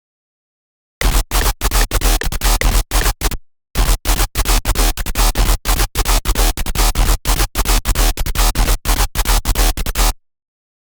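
Harsh, gritty wavetable synth patch from the Serum software synthesizer, played as rapid choppy stabs of about five a second over a deep sub-bass, like a dubstep growl. It comes in two runs with a short break about a third of the way through, and stops shortly before the end.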